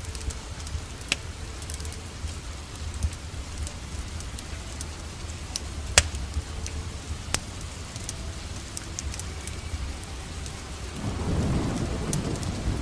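Steady rain mixed with the sharp pops and crackles of a wood fire. Near the end a low roll of thunder swells up.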